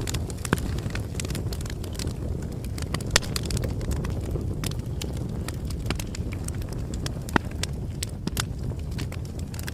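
Bonfire crackling: a steady low rumble of burning with dense small snaps and a few louder pops, about half a second, three seconds and seven seconds in.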